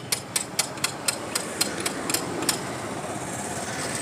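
Rapid, evenly spaced taps, about four a second, growing fainter and stopping about two and a half seconds in, over a steady background noise.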